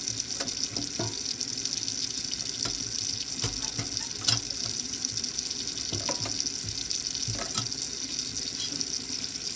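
Tap water running steadily into a sink, with a few light knocks of something being handled in it.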